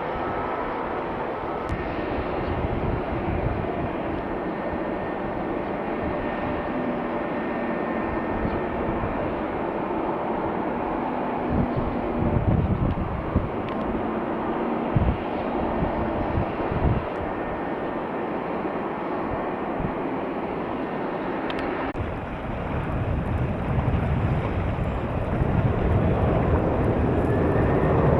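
Jet airliner engines, a steady rushing noise with faint whining tones, growing louder in the last few seconds. Wind buffets the microphone in low thumps around the middle.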